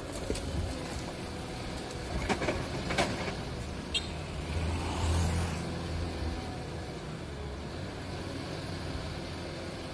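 Caterpillar 320D excavator's diesel engine running steadily, with a few sharp clanks about two to four seconds in and the engine briefly louder around five seconds in.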